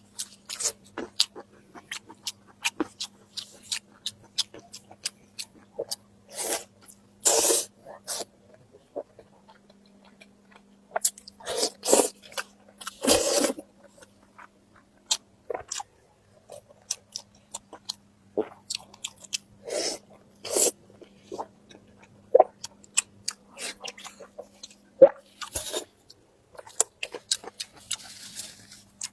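Close-up chewing and crunching of food in the mouth: many small wet clicks with several louder, longer crunching bites. A faint steady hum sits underneath.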